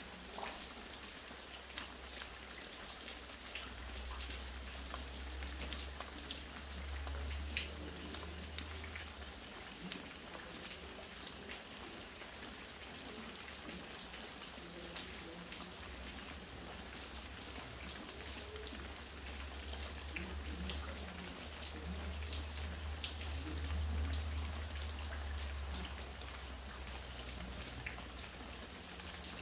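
Light, fine rain falling steadily, with many separate drops ticking, as water drips from a roof. A low rumble swells up twice underneath.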